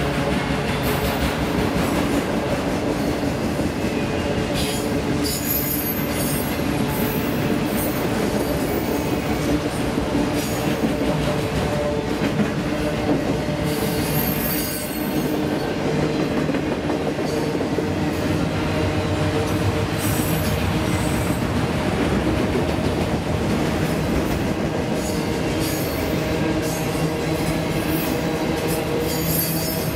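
Autorack freight cars rolling past on the rails: a steady rumble and clatter of steel wheels on track, with repeated brief high-pitched wheel squeals.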